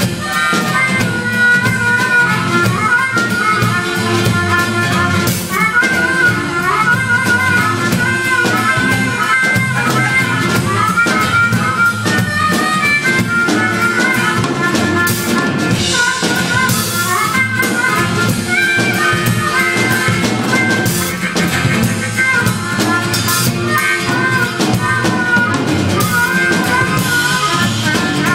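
Live band music: a drum kit with cymbal crashes every few seconds under a busy lead melody line, in a blues-jazz style.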